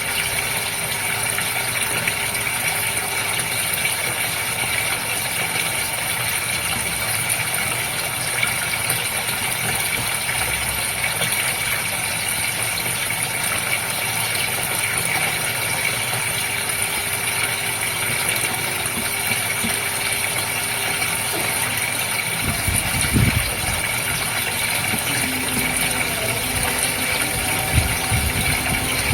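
Goldfish aquarium's pump running with a steady hum over constant water noise. A few low thumps come in toward the end.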